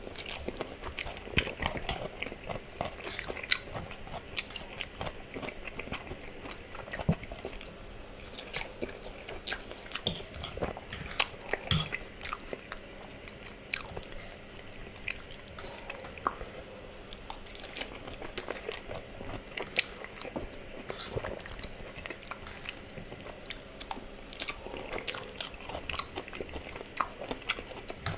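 Close-miked chewing of a mouthful of spaghetti in tomato sauce: an irregular run of soft wet smacks and small clicks of the mouth, with a few louder ones here and there.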